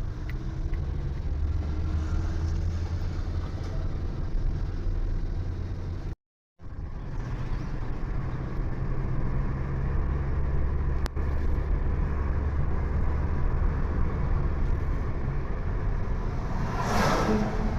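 Steady low road and engine rumble of a moving vehicle. The sound cuts out completely for about half a second around six seconds in, and a louder rushing whoosh rises about a second before the end.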